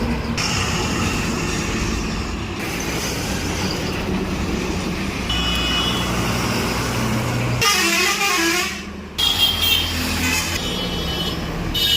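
Truck engine running with a steady rumble, with short horn toots sounding about halfway through and again near the end.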